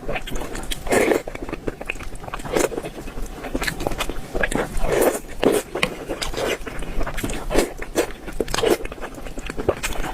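Close-miked eating sounds of someone biting and chewing spicy meat and rice. Repeated soft chewing swells come every half second to a second, with many small sharp clicks of mouth and food.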